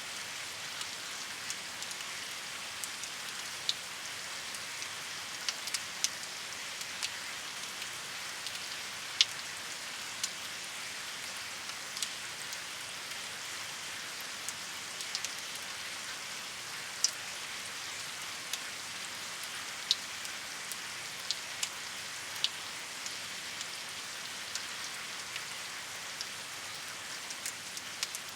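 Steady rainfall: an even hiss of rain with individual drops ticking sharply on a nearby surface at irregular intervals.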